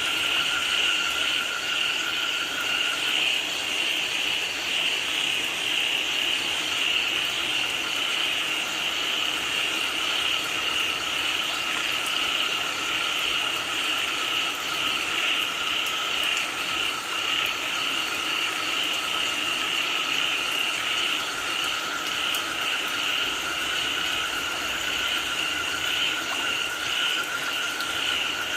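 A dense chorus of frogs calling continuously over steady rain: an unbroken high trilling mass of calls with no pauses.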